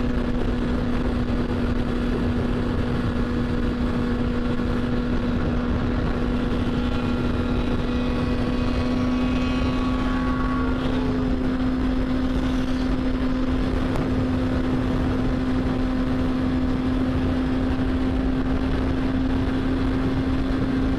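Motorcycle engine cruising at steady, fairly high revs, holding one even pitch, over a constant rush of wind and road noise.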